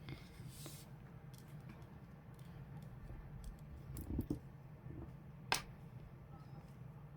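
Small handling sounds of crocheting with a hook and yarn: soft rustles and light clicks, with one sharper click about five and a half seconds in, over a steady low hum.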